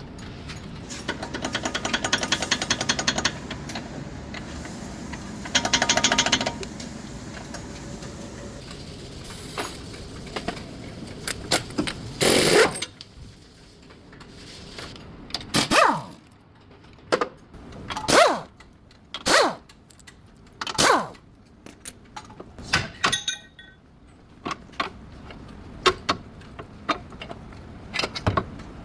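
Workshop tools at work on a car's front axle during a CV joint replacement: two bursts of fast, even rattling, then a series of separate sharp metallic knocks a second or two apart.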